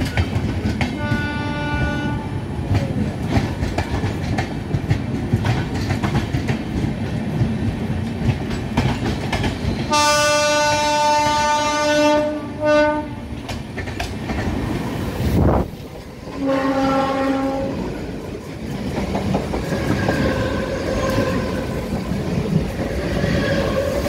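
Rumble and clickety-clack of a moving Indian Railways passenger train, recorded from beside its open window, with several train horn blasts: a short one about a second in, a long loud one about ten seconds in followed by a brief toot, and another about sixteen seconds in. A sudden whoosh comes just before the last horn, and in the last few seconds an electric suburban train rushes past close alongside.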